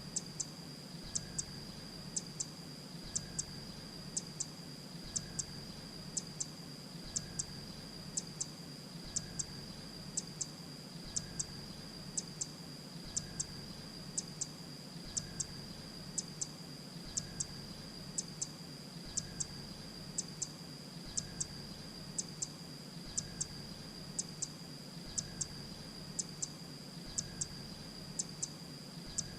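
Grey-breasted prinia calling: a sharp, high double note about once a second, repeated evenly, over a continuous high-pitched tone.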